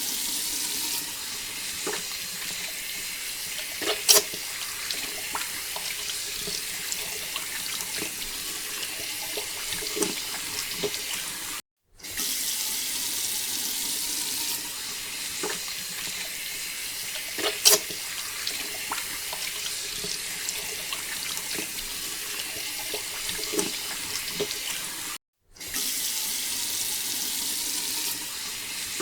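Water pouring in a steady stream from a mini water pump's outlet, with a few sharp splashes or knocks. The sound breaks off briefly twice at edit cuts.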